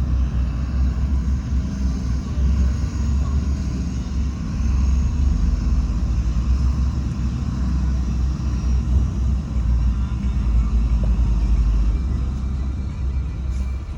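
Heavy diesel earthmoving machinery running steadily, with a deep low rumble.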